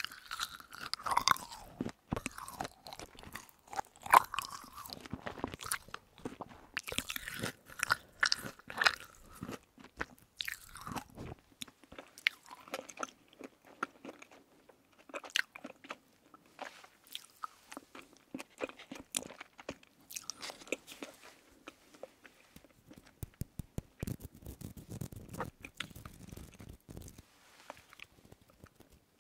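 Close-miked chewing of soft candy, with crunchy, wet clicking mouth sounds. These are dense for the first ten seconds or so, then sparser. Near the end a berry jelly candy is handled by fingers right at the microphone.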